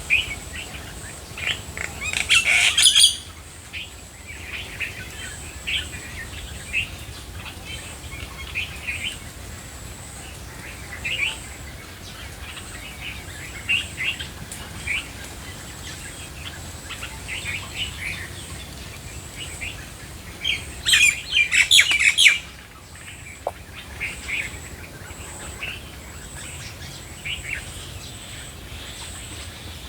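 Wild songbirds chirping, with many short calls scattered throughout and two louder spells of rapid, dense chirping, one about two seconds in and one about twenty-one seconds in.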